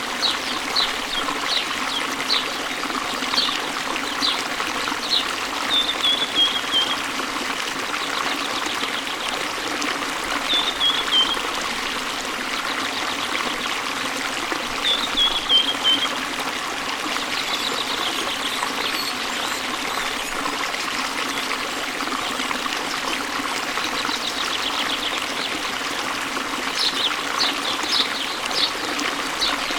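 Steady rush of a waterfall and its stream, with small birds chirping over it: quick high chirps near the start and near the end, and three short falling phrases a few seconds apart in between.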